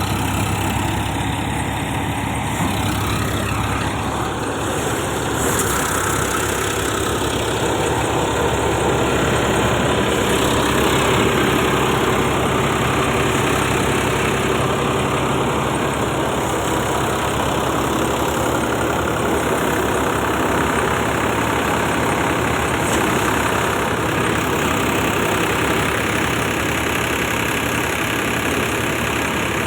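Sonalika Sikandar 47 tractor's diesel engine running steadily at a low, even speed.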